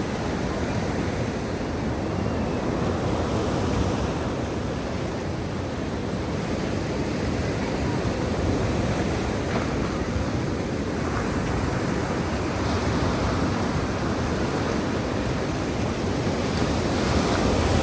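Black Sea waves washing in, a steady rush of surf that swells slightly every four or five seconds.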